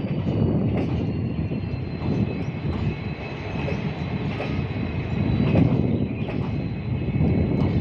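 Passenger coaches of an arriving train rolling past on curved track: a steady rumble of wheels on rail with scattered knocks over the rail joints, and a faint thin high wheel squeal held throughout.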